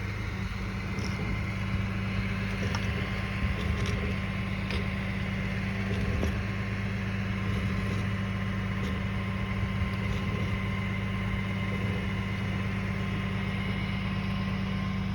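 A vehicle engine idling steadily, with a few faint ticks over it.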